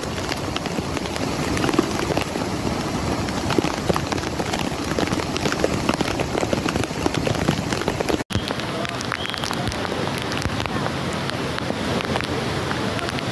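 Heavy monsoon rain pouring down, with the rush of floodwater beneath it, a dense steady hiss flecked with drop ticks. The sound breaks off for an instant about eight seconds in.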